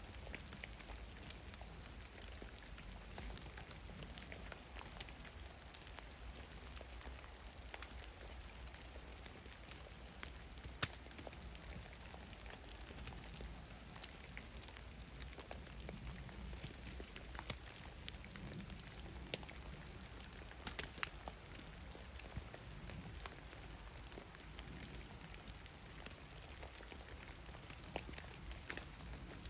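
Meltwater drops falling from snow-laden trees and landing in the snow, an irregular patter of soft ticks over a faint steady hiss, with a few louder single drips.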